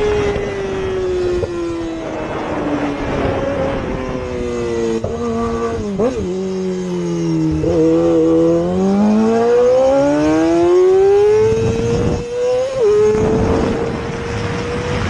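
Sports motorcycle engine running hard. Its pitch falls over the first six or seven seconds, then climbs steadily as the bike accelerates. Near the end it gives a quick blip and drops to a steady note.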